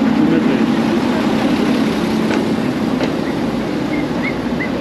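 Inca Rail diesel passenger train rolling slowly past at close range, a steady rumble of engine and wheels on the track. A few brief, faint high squeaks come near the end.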